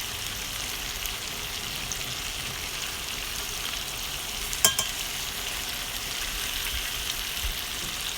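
Chicken pieces in soy sauce and spices frying in oil in a pan, with a steady sizzle. One sharp clink is heard about four and a half seconds in.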